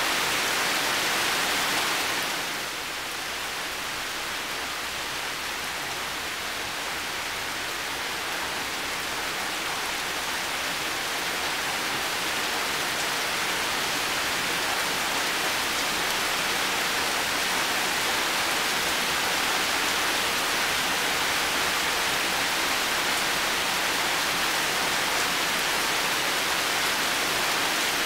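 Heavy rain falling in a steady, dense hiss. About two seconds in it drops a little in level, then slowly swells back over the next ten seconds or so.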